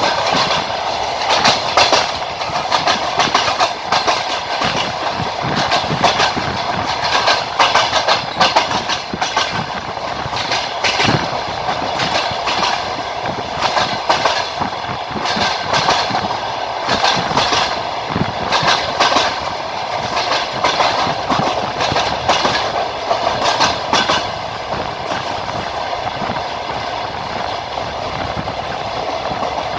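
Train wheels clattering over rail joints, a steady rolling rumble with repeated clusters of sharp clicks. The clicking thins out in the last few seconds, leaving mostly the running rumble.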